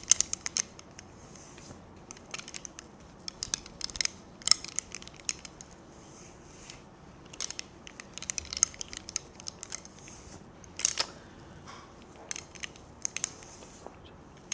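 Irregular small clicks, snips and crisp rustles of objects being handled, coming in short clusters with quiet gaps between them.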